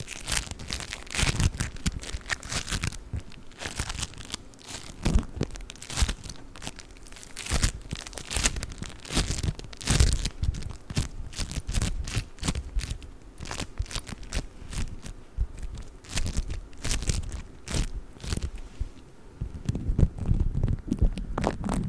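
Play foam, a bead-filled modelling compound, being squished and handled, giving a dense, irregular run of crackles and crunches.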